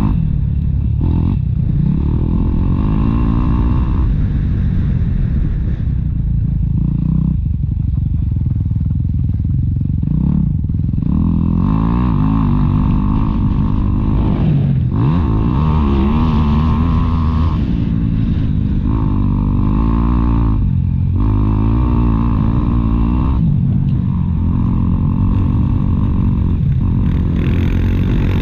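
Motocross bike engine revving up and down over and over as the throttle is opened and closed, with short drops in revs every few seconds.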